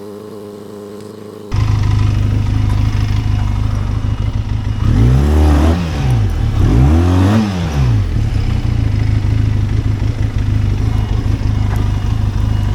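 Benelli TRK 502X's parallel-twin engine running, suddenly much louder about a second and a half in, revved up and back down twice in the middle, then running steadily.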